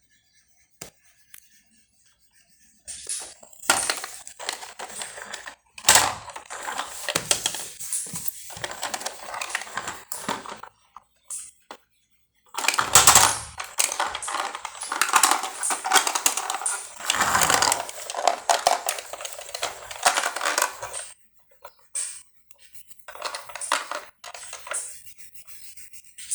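Small plastic toy vehicles clattering and rattling together as they are handled and rummaged through, in two long stretches of busy clicking with a pause between.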